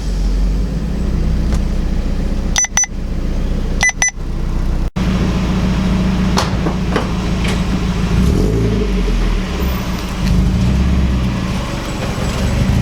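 Car engine running steadily, broken by a few abrupt cuts in the first half.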